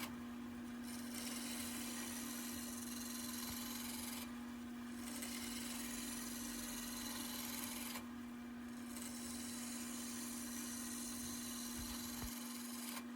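Wood lathe running with a steady hum while a roughing gouge cuts a spinning walnut table leg, giving a hissing cut that breaks off briefly about every four seconds between passes.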